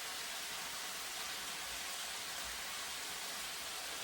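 Chicken pieces and carrot sizzling in hot oil in a frying pan, a steady even hiss.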